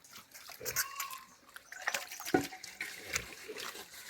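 Water splashing and sloshing in short, irregular splashes, as in washing by hand.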